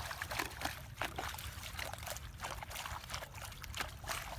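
Irrigation water splashing and trickling, with irregular crackly strokes over a steady low rumble.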